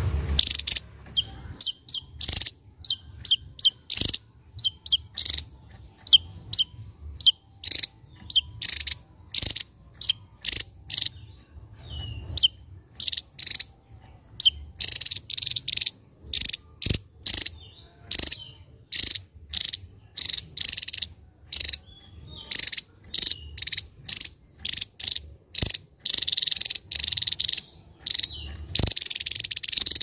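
Javan tesia singing: a long run of short, sharp, high chipping notes, one to three a second, coming thicker and faster near the end.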